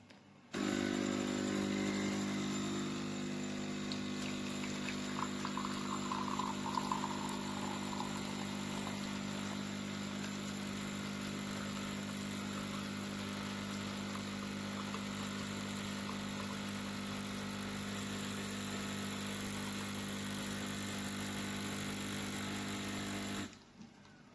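De'Longhi Dedica espresso machine's vibratory pump buzzing steadily as it runs, starting abruptly and cutting off about a second before the end.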